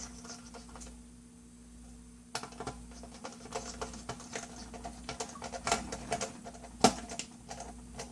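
Irregular small clicks and taps of laptop parts and cables being handled during reassembly. It is quieter for the first two seconds or so, and there is a sharper click about seven seconds in.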